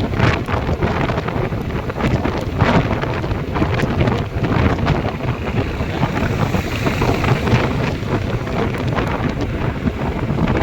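Heavy wind buffeting the microphone of a rider on a moving motorbike, a loud, fluttering rush.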